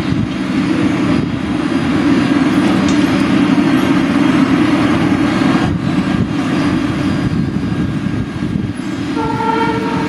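Indian Railways express train running past at speed: a loud, steady rumble and clatter of coach wheels on the rails. A train horn sounds briefly near the end.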